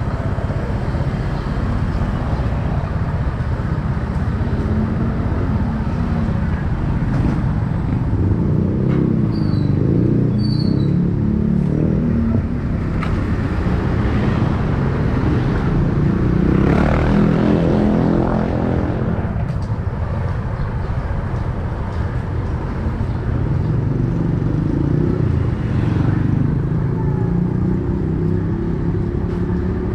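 Motorcycle engine running while riding through city street traffic, its pitch rising and falling with speed, most clearly about halfway through.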